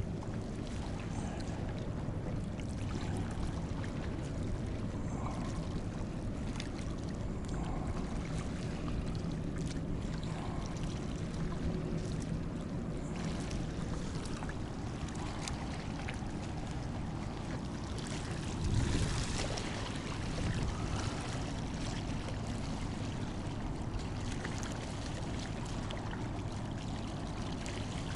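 Seawater sloshing and trickling against a stone embankment under a steady low hum, with a brief louder slosh about two-thirds of the way through.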